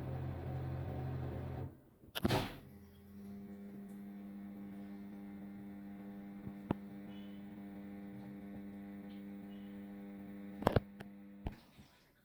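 Steady electrical hum, after a louder rumbling hum that cuts off about two seconds in. A few sharp clicks are scattered through it.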